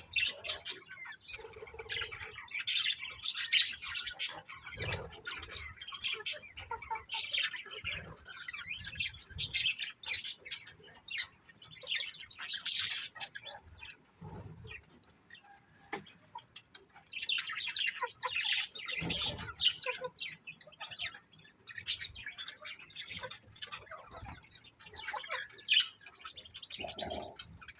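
Budgerigars chirping and chattering in quick, high, warbling bursts, with a quieter lull about halfway through.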